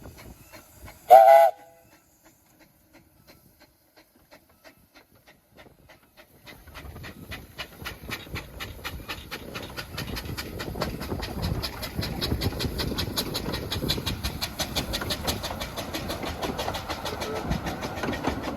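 A short blast on a 15-inch gauge steam locomotive's whistle about a second in. Then the train approaches with a rapid, even beat that grows steadily louder as it draws near.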